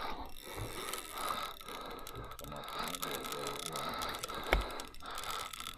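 Fishing reel being cranked during a fight with a big sturgeon, a low mechanical rattle and ratcheting, with one sharp knock about four and a half seconds in.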